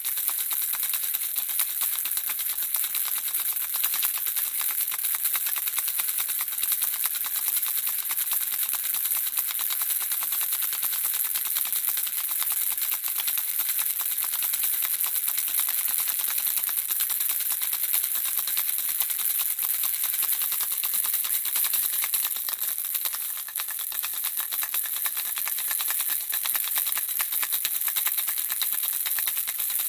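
Baby rattle shaken without pause: a steady, fast stream of tiny high clicks from the small objects inside it, dipping briefly in level about two-thirds of the way through.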